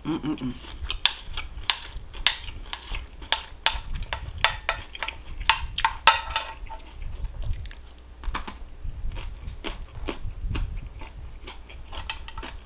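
Close-up mouth sounds of someone chewing crunchy food, with many short crisp crunches and wet clicks coming irregularly throughout.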